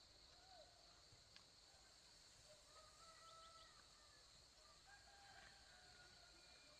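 Faint chickens calling, with a rooster crowing, over a near-silent background with a steady faint hiss.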